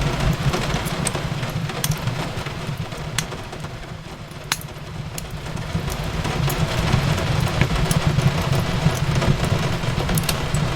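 Fireplace fire crackling, with scattered sharp pops over a low rumble and a steady hiss of rain. It eases off for a few seconds around the middle, then builds back up.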